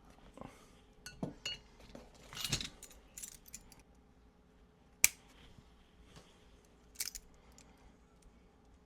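Light metallic clinks and rattles of hand tools and wire being handled during wiring work, with one sharp click about five seconds in and another short clatter near seven seconds.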